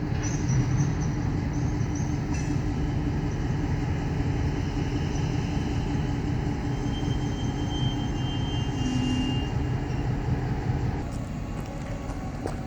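CSX train rolling past: a steady rumble of wheels on rail with thin, high squealing tones above it. It eases off near the end.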